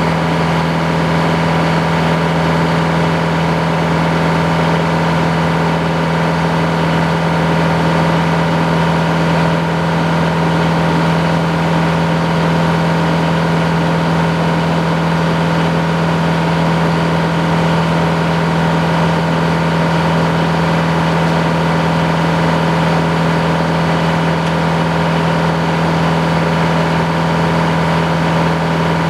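Sawmill engine running at a steady speed, with an even drone that does not change.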